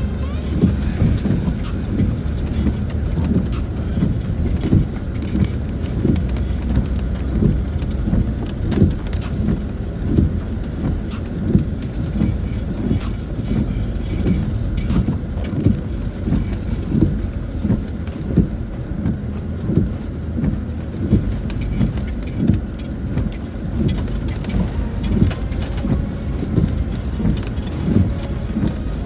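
Cabin noise of a Land Rover Discovery 4 driving slowly over a rough, wet track, heard from inside: a steady low rumble broken by frequent irregular knocks and thumps as the vehicle bumps over the uneven ground.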